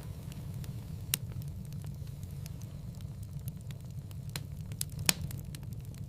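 Wood fire burning in a fireplace, crackling with scattered small snaps over a steady low rumble. There are two sharp pops, one about a second in and a louder one near the end.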